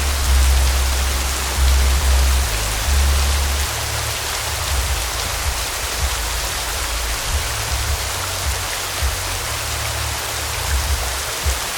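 Steady rain-like hiss over background music with held, deep bass notes.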